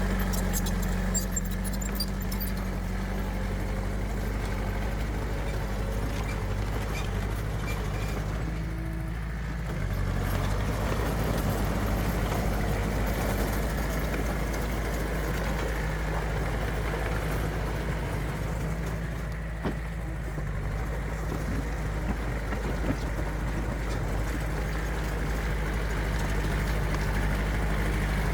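Diesel engine of heavy earthmoving machinery, a dump truck or bulldozer, running steadily with a deep hum. It eases off briefly twice, with a few light metallic clicks and rattles over it.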